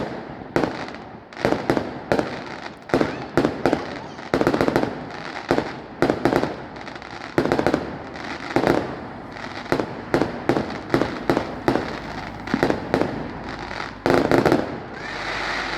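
Fireworks display: a rapid, irregular string of bangs and cracks from bursting shells, with a dense cluster of loud bangs near the end.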